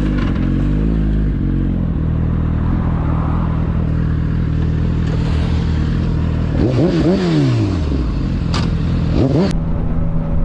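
Motorcycle engine running steadily in traffic, revved up and back down about two-thirds of the way through, with another short rev and a couple of sharp clicks near the end.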